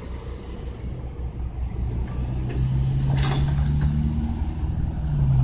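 Road traffic rumble, with a large vehicle's engine drone coming in about halfway through and getting louder toward the end; a brief sharp sound about three seconds in.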